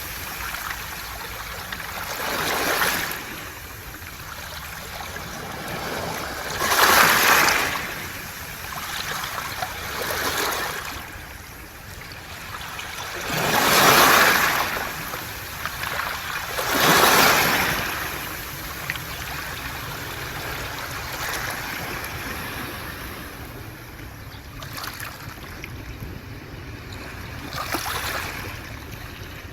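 Waves washing up and back over a beach of smooth round pebbles, each surge swelling and fading every few seconds; the swells grow weaker in the last third.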